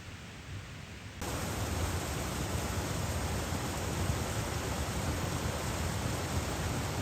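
Steady rushing noise with no distinct events, which jumps abruptly louder about a second in and then holds steady.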